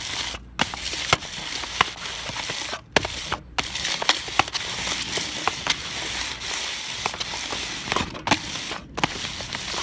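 Plastic packaging being crinkled and handled close to the microphone: a steady rustle broken by many sharp crackles.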